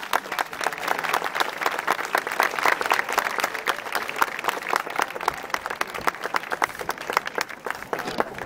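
Audience applauding: many hands clapping densely and irregularly.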